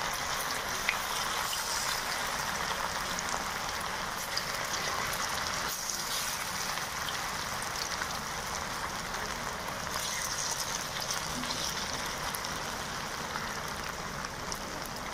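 Marinated, cornflour-coated boneless chicken pieces sizzling as they deep-fry in hot oil in a wok: a steady hiss with scattered small pops as more pieces are dropped in.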